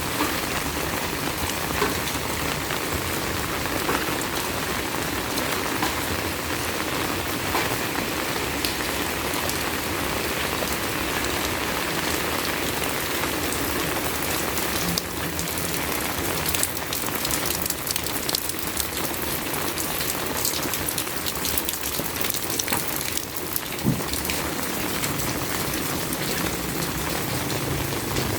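Heavy rain falling steadily, a dense hiss with many sharp close drop ticks that grow thicker in the second half.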